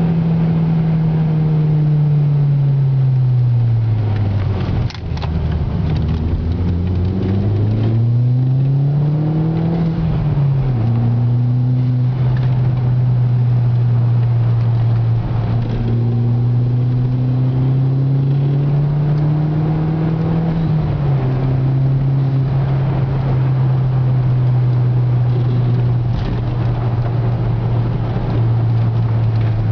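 Volkswagen GTI's 1.8-litre turbocharged four-cylinder engine heard from inside the cabin, over steady road noise. The engine note falls as the car slows, with a short knock about five seconds in. It then climbs again, drops with gear changes at about ten and twenty-one seconds in, and holds a steady cruising note near the end.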